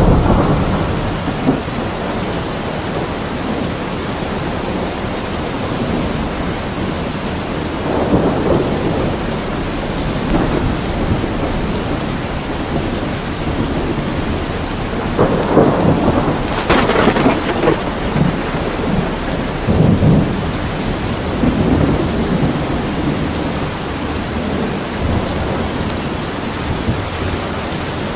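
Heavy rain falling steadily, with repeated rolls of thunder: one at the very start, another about eight seconds in, and a cluster between about fifteen and twenty-two seconds, with the sharpest crack around seventeen seconds.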